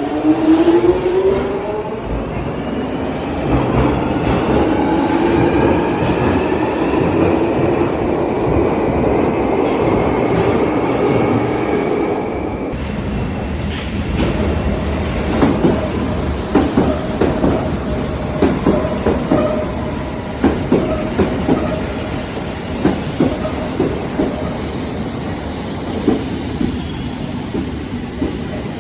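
London Underground train gathering speed: its traction motors whine in several tones that rise in pitch over the first dozen seconds. After that come irregular sharp clicks of wheels over rail joints.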